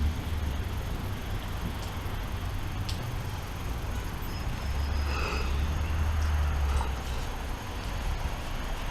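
Thunderstorm: a steady hiss of rain, with a low rumble of thunder swelling from about five seconds in and fading near seven seconds.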